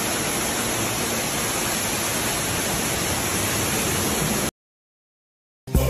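A steady rushing noise, like heavy water or rain, at an even level. It cuts off abruptly about four and a half seconds in, followed by a second of dead silence.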